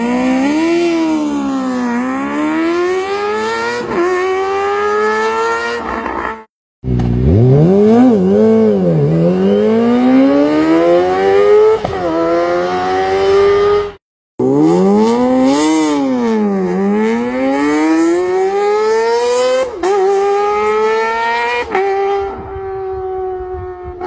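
Kawasaki Ninja ZX-25R's 250 cc inline-four, fitted with different exhausts, revving high and accelerating through the gears. The pitch climbs and drops sharply at each shift, dips and climbs again a few times, and breaks off twice in brief silent cuts between clips.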